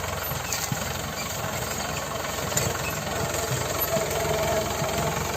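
Diesel tractor engine running steadily with a rapid, even pulse.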